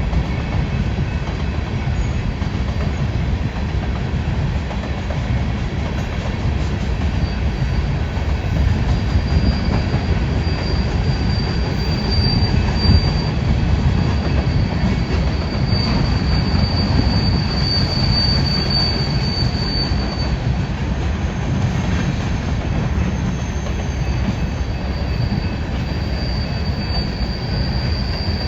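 A coal train's cars rolling past with a heavy, steady rumble of wheels on rail. A thin, high wheel squeal comes and goes over it, strongest partway through and again near the end.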